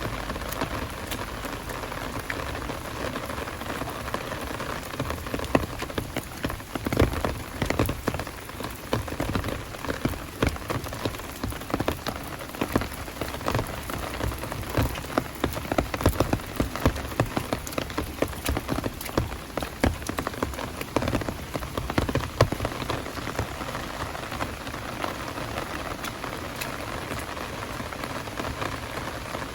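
Heavy rain falling steadily, with many sharp drop impacts striking close by. The impacts are thickest in the middle stretch.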